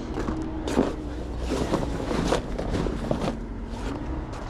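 Heavy flatbed tarp rustling and scraping as it is pulled and folded, over a steady low rumble.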